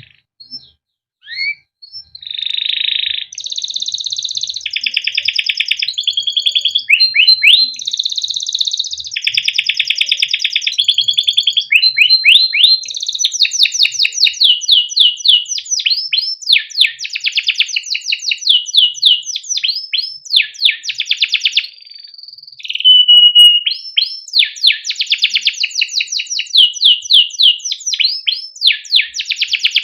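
Male canary singing a long, almost unbroken song of rapid trills and rolls, strings of fast repeated 'cuit cuit' chirps, and a short pause about two-thirds of the way through.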